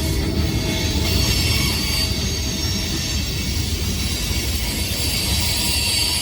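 Freight train rolling past at close range: a steady low rumble of wheels on rail with a high-pitched wheel squeal that grows louder near the end.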